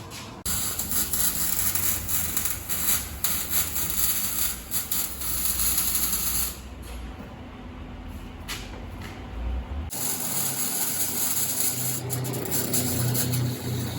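Loud, hissing mechanical tool noise from exhaust work under the truck, running from about half a second in to about six and a half seconds, then easing off. From about ten seconds in, a different lower-pitched mechanical hum takes over.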